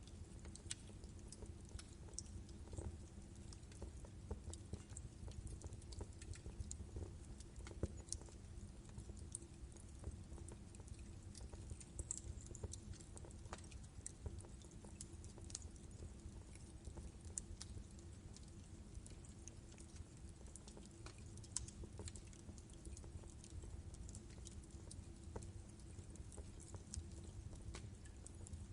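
Log fire crackling in a fireplace: an irregular scatter of small sharp pops and snaps over the low rumble of the burning, with a faint steady hum underneath.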